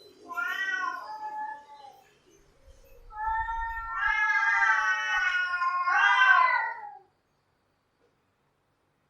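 Cats yowling: a short wavering yowl, then a longer, louder drawn-out yowl that rises and falls in pitch and cuts off suddenly about seven seconds in.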